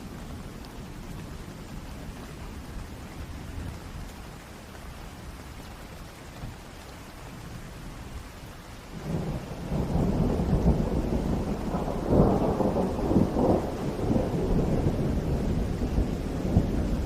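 Thunderstorm: rain falling under low rolling thunder, with a loud, crackling peal of thunder building about nine seconds in and rumbling on to the end.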